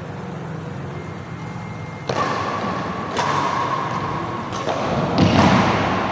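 A run of sudden thuds about a second apart, badminton racket strokes on a shuttlecock during a rally, each followed by a wash of noise.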